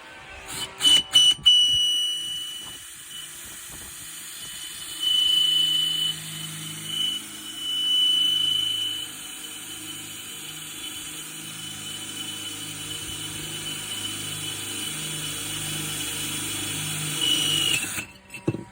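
Power drill with a ceramic-drilling bit boring a drain hole through a flower pot. It opens with a few sharp clicks, then the motor runs steadily with a high whine from the bit until it stops near the end.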